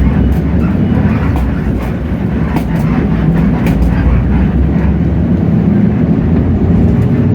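Hino J08E-VN inline-six turbo-diesel running steadily, heard from inside the bus, with a constant low drone. Short rattles and clicks from the bus body come and go over it.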